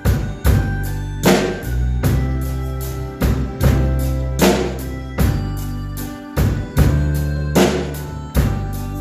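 Drum kit played along to a recorded song backing track: a slow, even beat with a strong hit about every 0.8 seconds over sustained bass and melody.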